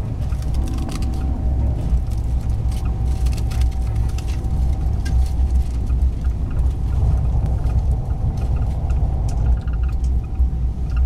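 Steady low rumble of a moving train, heard from inside the carriage, with a faint steady whine and scattered light clicks over it.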